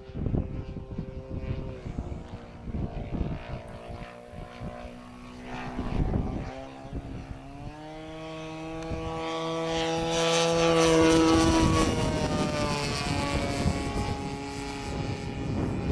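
Evo 35cc two-stroke gas engine of a large radio-controlled P-47 model flying past. The engine note climbs in pitch and grows louder, is loudest about eleven seconds in, then drops in pitch and fades as the plane moves away.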